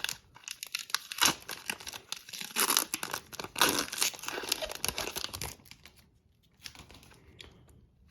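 Plastic wrapper of a hockey card pack being torn open and crinkled, a dense crackling that dies down to a few faint rustles about six seconds in.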